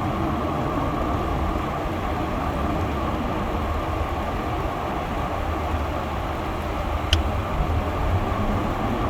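Steady road and engine noise heard from inside a Chevy Malibu's cabin while driving, with the defroster fan blowing. A single short click sounds about seven seconds in.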